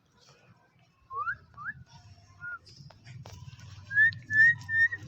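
Whistling: two short rising whistles about a second in, then, from about four seconds in, a quick run of short whistled notes held at one pitch.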